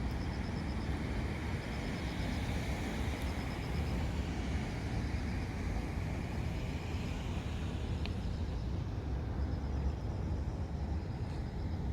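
Steady low rumble of outdoor background noise, with short runs of faint, rapid high chirps repeating every second or two.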